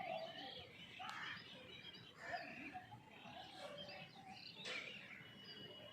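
Several birds chirping and calling faintly over low background noise, with a couple of short sharp ticks.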